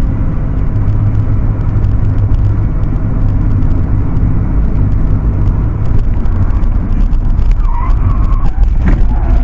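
Loud, steady low rumble of a vehicle on the move, road and engine noise with no let-up. A brief wavering higher sound comes through near the end.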